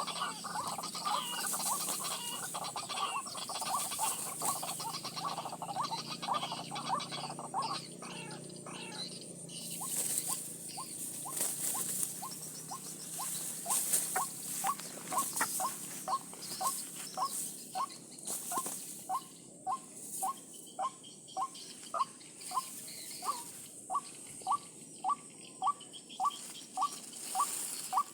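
White-breasted waterhen calling. It opens with a busy jumble of croaking calls, then about ten seconds in settles into a steady series of short single notes, nearly two a second, over a steady high hiss.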